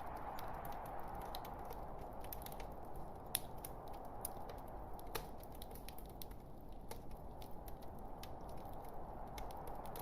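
Log fire burning in a fireplace: a steady soft hiss with irregular sharp crackles and pops from the burning wood, one louder pop about a third of the way in.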